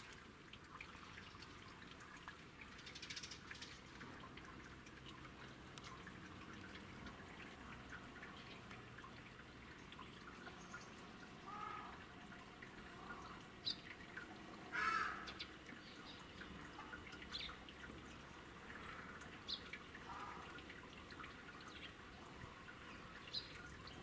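Faint bird calls at intervals, with one louder call about 15 seconds in, over a quiet background.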